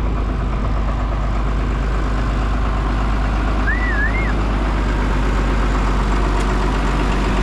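Tractor engine running steadily at idle. A short wavering chirp sounds once a little past the middle.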